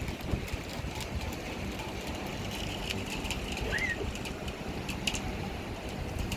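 Heavy rain and gusty wind in a thunderstorm, with wind rumbling on the microphone and scattered sharp ticks of drops; a short rising chirp about four seconds in.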